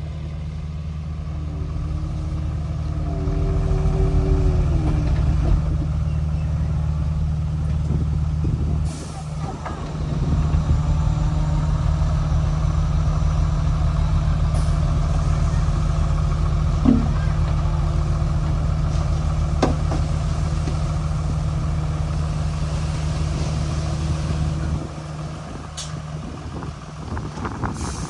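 Komatsu D31P bulldozer's diesel engine running steadily under work. It grows louder in the first few seconds, dips briefly about nine seconds in, then settles to a quieter level near the end.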